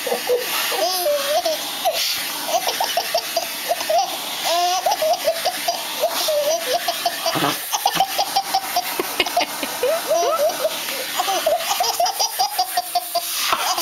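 Baby laughing hard in quick, repeated bursts of belly laughter, over the steady hiss of a vacuum cleaner running.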